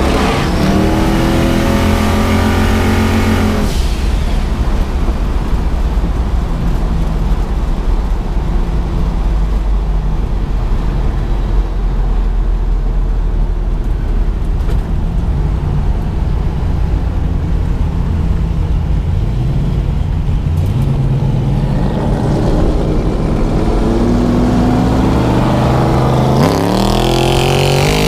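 Twin-turbocharged 5.3-litre LS V8 (L33) of a 1974 Chevrolet Nova accelerating, its pitch rising for about three seconds, then dropping abruptly to a low steady rumble off the throttle. It builds again later and climbs hard over the last few seconds.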